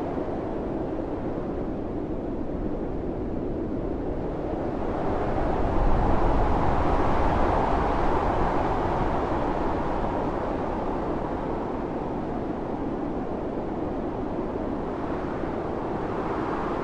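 Storm wind blowing hard and steadily, with a stronger gust that builds about five seconds in, peaks a couple of seconds later and slowly dies back.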